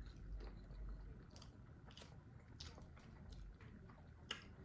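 Faint close-up chewing of a big mouthful of ramen noodles, with a few soft wet clicks of the mouth.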